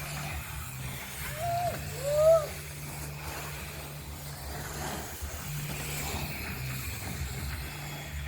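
BMX tyres squealing twice in quick succession, each a short 'yeeow' tone that rises and falls, the second louder. A steady low hum runs underneath.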